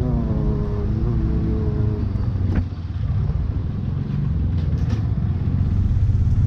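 Motorcycle engine running at low speed with a steady low rumble, heard from the rider's seat.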